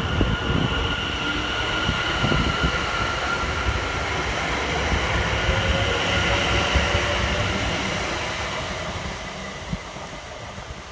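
London Overground Class 710 electric multiple unit moving away along the track. Its wheels and running gear rumble, with a steady high whine over the top, and the sound fades over the last few seconds as the train recedes.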